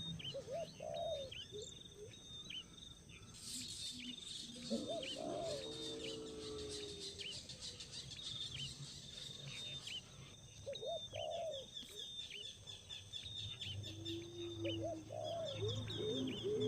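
Small birds chirping over and over in high, quick notes, with lower, longer calls now and then.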